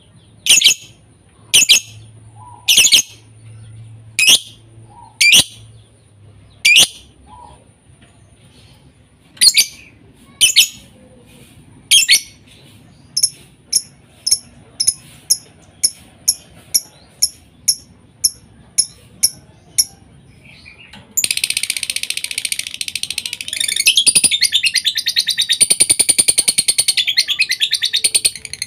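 Lovebird calling: loud, sharp high chirps about a second apart, then a faster even run of shorter chirps. The last seven seconds or so are a long, continuous rapid trill. This is a bait call used to set other lovebirds singing.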